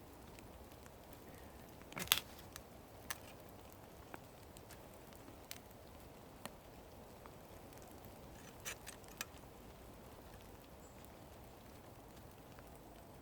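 Steady rain pattering in a forest, with scattered sharp clicks and snaps: the loudest comes about two seconds in, and a small cluster comes about nine seconds in.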